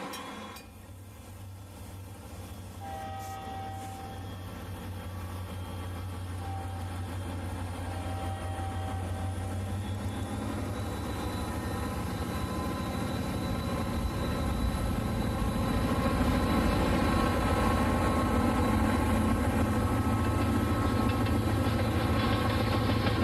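Diesel locomotive engine running with a steady low hum that grows steadily louder as it approaches. Short horn blasts sound about three seconds in and again around six and eight seconds.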